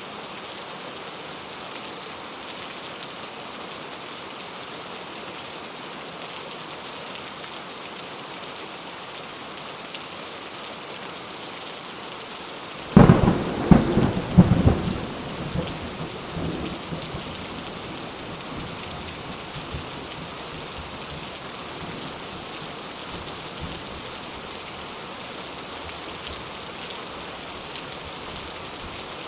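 Steady rain falling. About halfway through, a thunderclap breaks in sharply, cracking several times over a couple of seconds, then rumbles off over a few more seconds.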